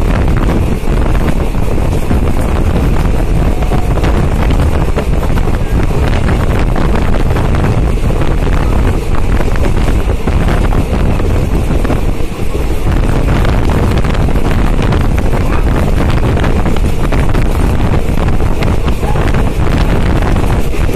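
Steady running noise of a moving passenger express train heard from on board, with wind buffeting the microphone.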